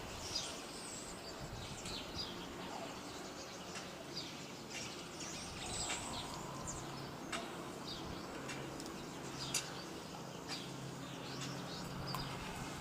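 Small birds chirping and twittering, many short high calls scattered throughout over a steady background hiss. A low steady hum comes up in the second half.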